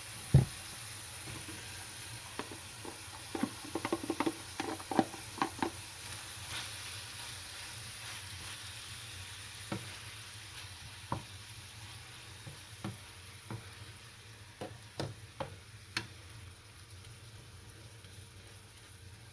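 Hamburger meat sizzling as it browns in a frying pan, with a utensil stirring it and clicking and scraping against the pan; a sharp knock comes about half a second in.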